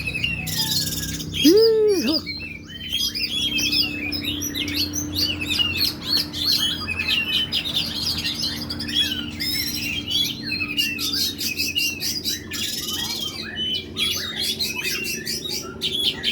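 Oriental magpie-robin (kacer) singing a fast, varied song of chirps and whistles, broken several times by bursts of sharp, piercing high 'shot' notes. About one and a half seconds in, a brief low arched tone with overtones is the loudest sound.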